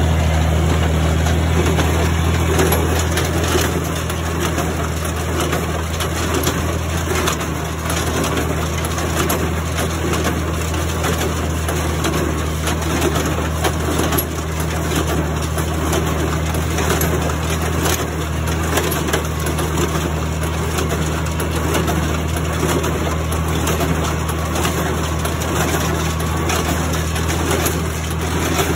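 Old tractor engine running steadily, with the clatter of a small square baler picking up and packing hay.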